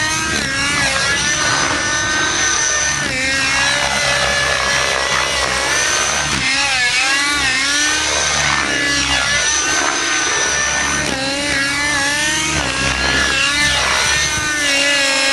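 Nitro RC helicopter's glow engine running through a GP-Exhaust tuned pipe in flight, its pitch rising and falling again and again as the pilot works the throttle and collective. It sounds definitely quieter, without a howl.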